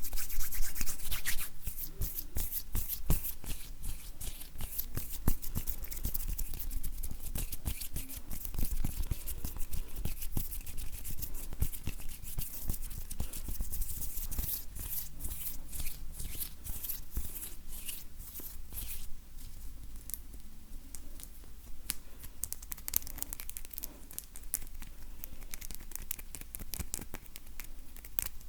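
Dry bare hands rubbing and brushing together close to the microphone: a papery skin rustle with many small crackles. It is louder for the first couple of seconds, then softer.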